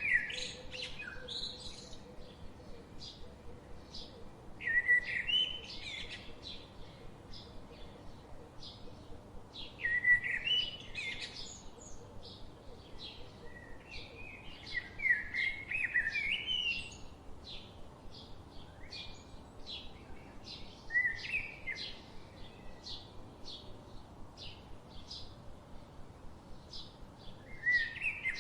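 Forest birdsong: one bird repeats a short warbling phrase of a second or two about every five seconds, with quick high chirps from other birds in between over a faint steady background hiss.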